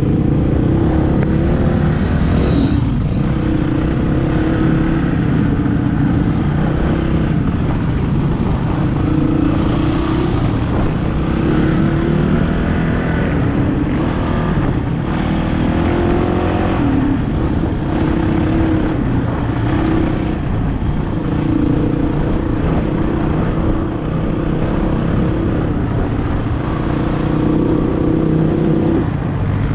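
Dirt bike engine running under way, its pitch rising and falling with the throttle throughout.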